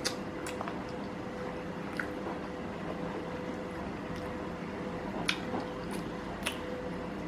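Close-miked chewing of chicken biryani, with a few short wet mouth clicks and smacks scattered through, over a steady low hum.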